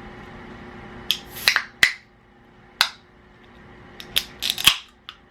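Soda can or bottle handled close to the microphone: a handful of sharp clicks and short cracks in three small clusters.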